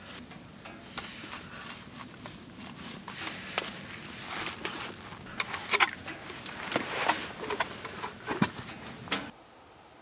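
Irregular close clicks, knocks and rustles of handling, getting busier toward the middle and cutting off abruptly near the end.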